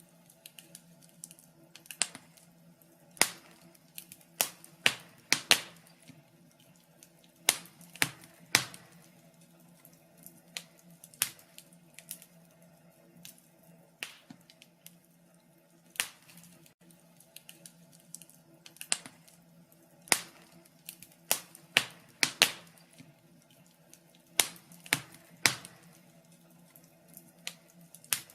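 Wood fire crackling, with sharp, irregular pops and snaps every second or so, some much louder than others, over a faint steady low hum.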